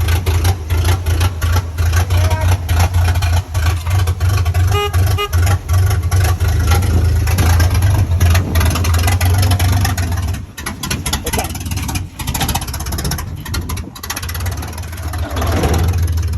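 Truck engine and exhaust running loud with a deep, rough rumble, easing off about ten seconds in and building up again near the end.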